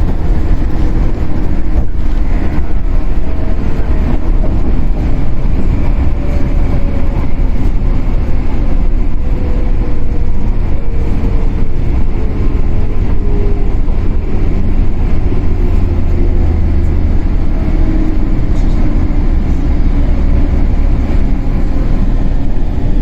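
Running noise heard aboard a Shinano Railway 115-series electric train, car KuMoHa 115-1013: a loud, steady low rumble of the train under way, with faint whining tones that slowly fall in pitch.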